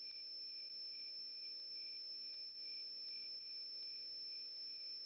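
Faint crickets chirping: a steady high trill with a softer chirp pulsing a few times a second beneath it.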